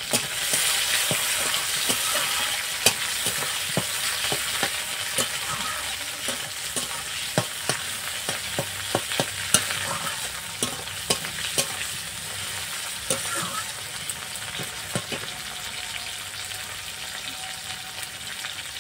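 Chopped tomatoes and onions sizzling in hot mustard oil in a metal kadai, with a metal spatula clinking and scraping against the pan as they are stirred. The clinks come often in the first two-thirds, and the sizzle eases a little toward the end.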